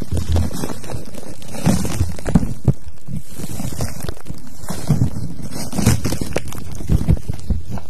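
Close-miked ASMR handling sounds: irregular soft thumps and scratchy rubbing right on the microphone.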